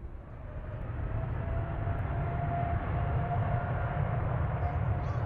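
Jet airliner's engines growing louder over the first second or so, then holding a steady rumble with a faint high whine running through it.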